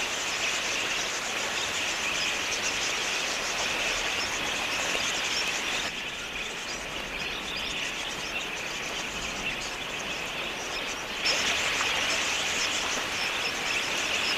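A large flock of budgerigars calling: a dense, continuous mass of small chirps. It drops a little about six seconds in and comes back louder about eleven seconds in.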